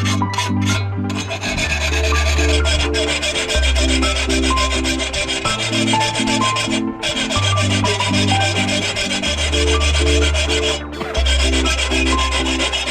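Steady abrasive rubbing, like sanding or filing on metal, with two brief breaks about seven and eleven seconds in. Background music plays over it: a stepping bass line, repeated chords and a sparse melody.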